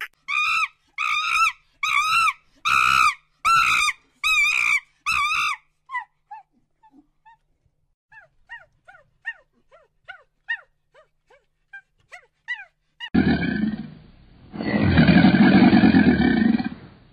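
A sequence of animal calls: about seven evenly spaced, wavering pitched calls over the first five seconds, then a run of faint, short falling chirps, and from about thirteen seconds in a loud, low, rough call.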